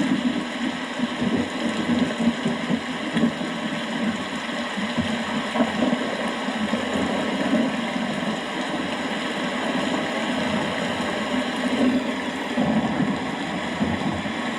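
Steady rain with distant thunder rumbling low underneath.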